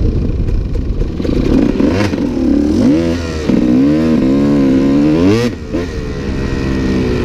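Dirt bike engine revving hard under load: the revs climb in repeated surges from about three seconds in, drop sharply at about five and a half seconds, then run steadier.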